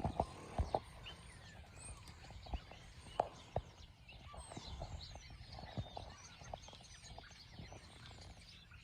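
Many small birds chirping and chattering together, with short overlapping calls throughout. Several sharp clicks or knocks in the first few seconds.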